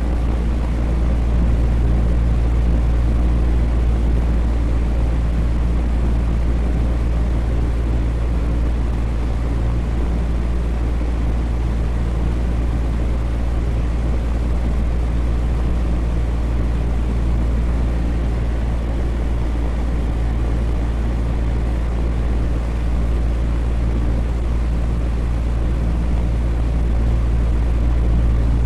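Electric fan running steadily: a constant low whooshing drone with a steady low hum under it.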